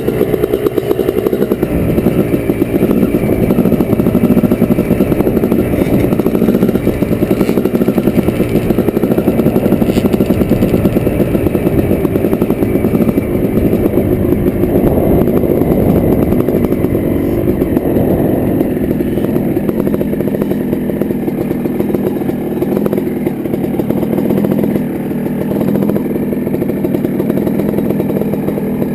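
Motocross dirt bike engine running close by at a steady speed, easing off slightly near the end.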